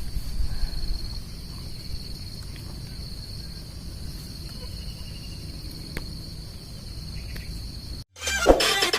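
Outdoor ambience: an insect trills steadily at a high pitch for the first few seconds, over a low rumbling noise. Near the end the sound cuts out briefly and music begins.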